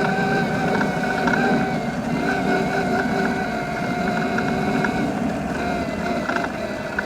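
Evoltrix X7 electric pit bike's 48-volt mid-drive motor whining steadily while ridden, over a rough low rumble from the running gear. The whine dips slightly in pitch around five seconds in as the bike eases off.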